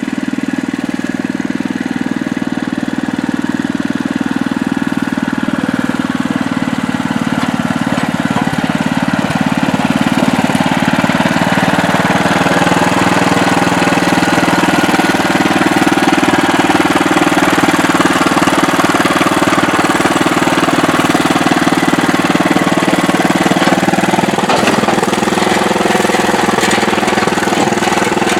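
Old rototiller's small petrol engine running steadily while it is driven up onto a trailer, getting louder about ten seconds in.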